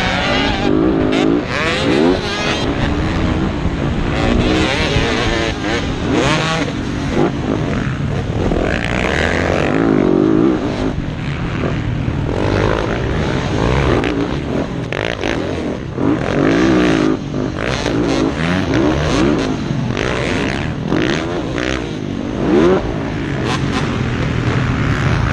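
Motocross bike engines racing, revving up and down repeatedly as they accelerate and shift, with more than one engine heard at times.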